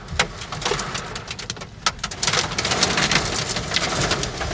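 Hail and heavy rain pelting a car's roof and windshield, heard from inside the cabin: scattered sharp ticks of hailstones that thicken about two seconds in into a denser, louder clatter.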